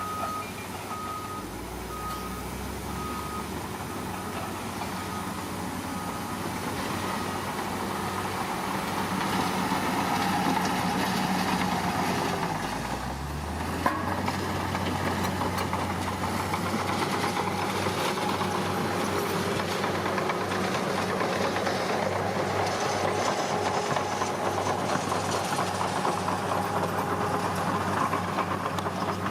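Heavy diesel earthmoving machinery running steadily while a reversing alarm beeps about once a second for the first seven seconds. About halfway through, the engine note rises as it takes load, and there is a single sharp knock.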